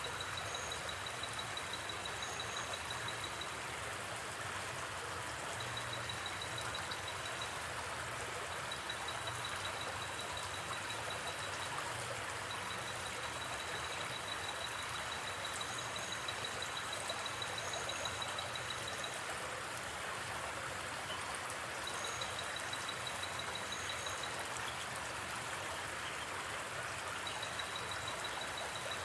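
Steady rush of a gently flowing river. Over it, a high, rapid chirping comes in long runs, and a higher double chirp repeats every couple of seconds, like night-forest creatures.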